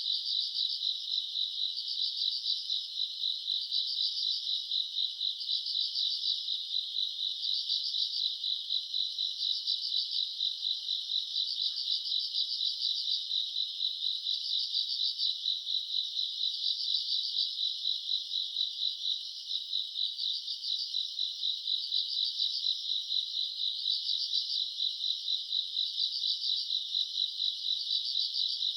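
A chorus of crickets and other grass insects chirping: a steady, rapid high-pitched trill with louder pulsed phrases repeating about every two seconds.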